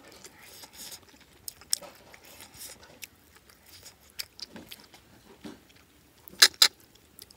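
Close-up chewing and lip smacking of a person eating snails and rice by hand, with scattered short crunchy clicks and two louder sharp smacks about six and a half seconds in.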